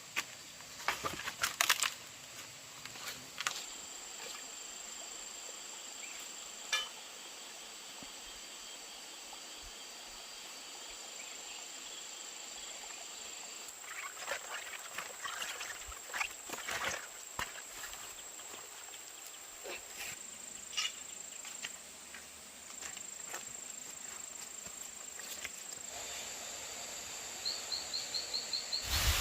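Insects droning in steady high tones, with scattered sharp clicks and crackles, and a quick run of ticks near the end.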